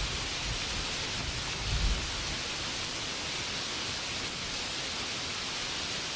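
Steady rainfall, an even hiss, with a brief low rumble a little under two seconds in.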